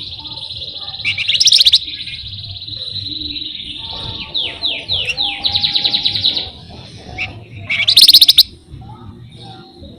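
Flamboyan songbird singing a long, fast rolling trill. The trill is broken twice by very loud, harsh, rapid rattles, about a second in and again near eight seconds, and a run of falling whistled notes comes near the middle.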